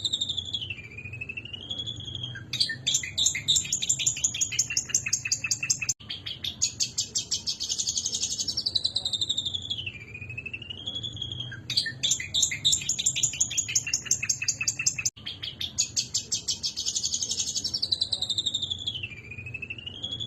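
Long-tailed shrike (cendet) singing excitedly: a rapid chattering run of notes, then a downward-sliding call and wavering whistles, the same phrase repeating about every six seconds.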